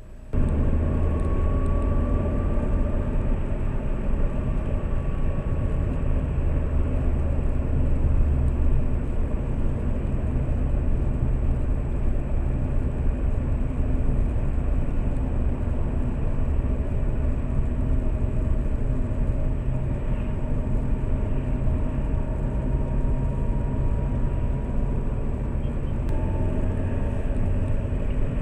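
Lada Priora heard from inside the cabin while driving: a steady low rumble of engine and road noise, recorded by a dashcam.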